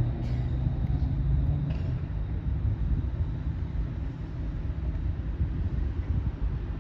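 Eglinton Crosstown light rail train running with a steady low rumble, and a few faint clicks in the first two seconds.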